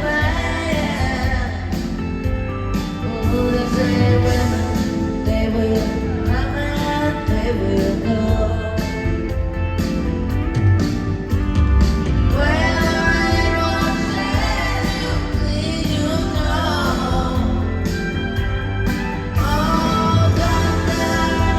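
Live rock band playing loudly with a singing voice over bass and drums, as heard from the audience in a large hall.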